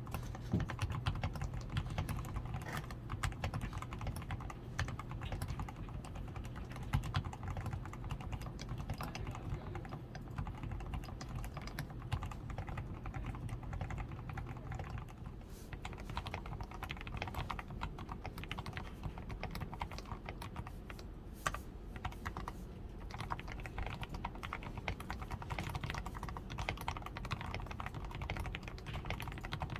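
Continuous fast typing on a DAREU A87 Pro mechanical keyboard, fully lubed with Krytox 105, with a tape-modded PCB, Poron foam added, XDA keycaps and lubed stabilizers: a dense, uneven stream of keystrokes.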